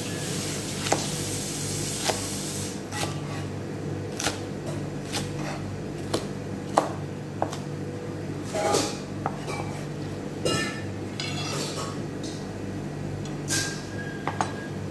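Irregular knocks and clinks of kitchen utensils and dishes, among them a knife striking a cutting board as spring onions are cut, over a steady low hum.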